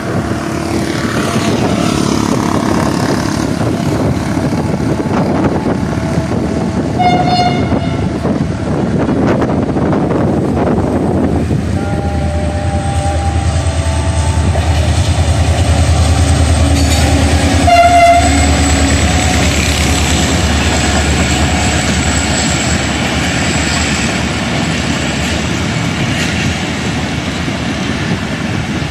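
Pakistan Railways HGMU-30 diesel-electric locomotive approaching and passing with a passenger train, its engine rumble loudest in the middle. It gives two short horn blasts, about seven and eighteen seconds in. The coaches' wheels then roll by along the track.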